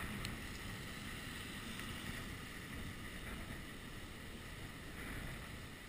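Steady, low wind rumble, muffled by a GoPro's sealed waterproof housing.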